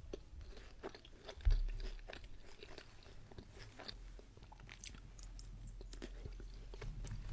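Close-miked chewing and crunching on a bite of pizza, a scatter of short crisp crunches and mouth clicks. A dull low thump about one and a half seconds in is the loudest sound.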